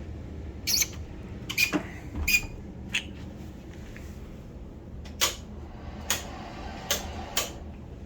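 Cabin cabinet doors and latches being handled: a series of about nine short, sharp clicks and knocks at uneven intervals, over a steady low hum.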